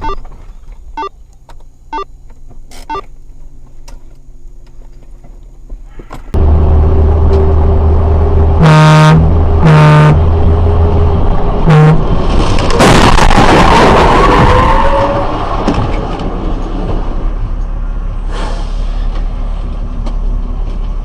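Car horn sounding over loud road and engine noise inside a vehicle: two blasts about nine and ten seconds in, and a short toot near twelve seconds. It is followed by a few seconds of loud rushing noise before the road noise settles again.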